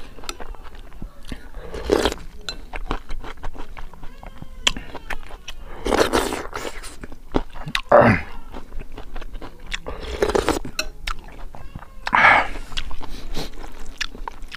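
Close-miked chewing and crunching of crispy pork and rice: many small crackling clicks, with five louder mouth noises spread through.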